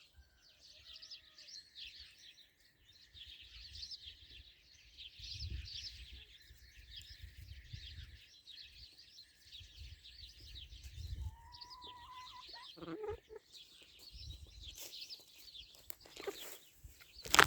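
Birds chirping and cheeping continuously in a dense chorus, over patches of low rumble. A few lower, louder fowl calls come in the last few seconds.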